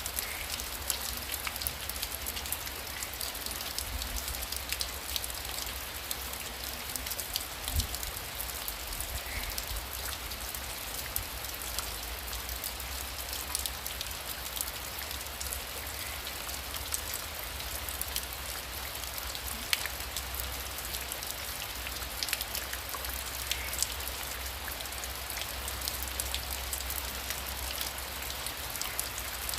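Heavy rain falling steadily: a constant hiss dotted with sharp ticks of individual drops striking close by, over a low steady rumble.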